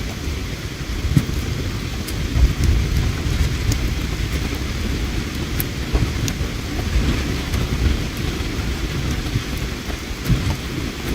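Campfire burning, with scattered sharp crackles and pops over a steady low rushing noise of flowing river water.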